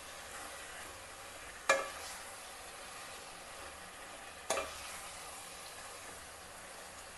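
Raw chicken pieces sizzling in hot oil and red chilli masala while a metal spoon stirs them in a metal pot. The spoon knocks sharply against the pot twice, about two seconds in and again about four and a half seconds in.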